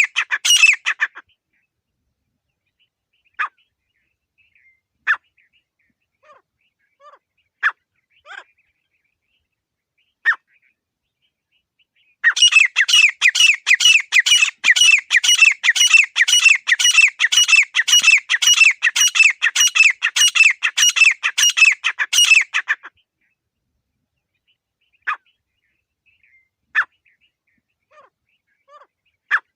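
Grey francolin (desi teetar) calling. Short single calls come every second or two, then a long run of rapidly repeated calls lasting about ten seconds, then single calls again.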